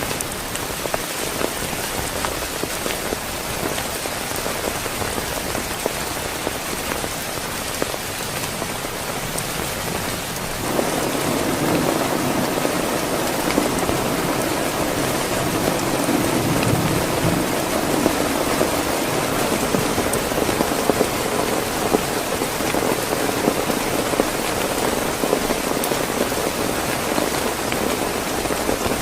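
Heavy rain falling steadily on a surface. About a third of the way in, a lower rumble of thunder joins and rolls on, loudest a little later.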